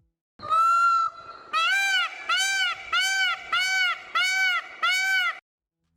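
Indian peafowl (peacock) calling: one held call, then a run of six loud, evenly repeated arched honking calls.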